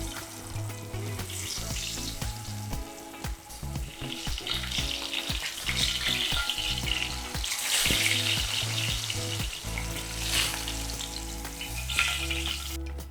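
Flour-coated chicken breast pan-frying in hot coconut oil, a steady sizzle that swells louder in the middle and cuts off suddenly just before the end.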